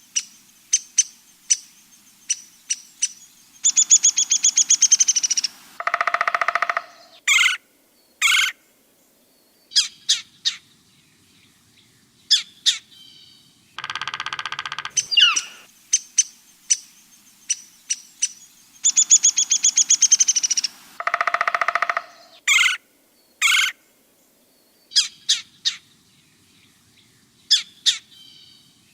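Bird calls: short sharp chirps, a rapid trill that falls slightly in pitch, and harsher rattling calls between them. The same sequence repeats about halfway through, as a looped track.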